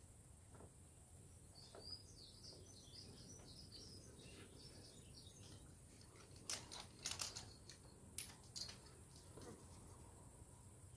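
Near-quiet open air with faint bird chirping for a few seconds, then a cluster of sharp clicks and knocks a little past the middle.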